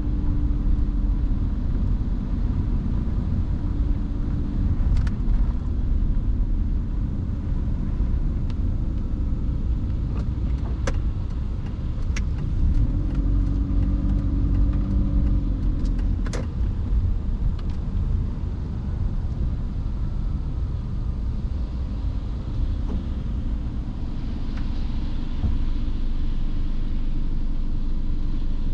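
Car driving through rain on wet streets: a steady low rumble of road and engine noise, with a few sharp clicks scattered through and a brief rise in hiss near the end.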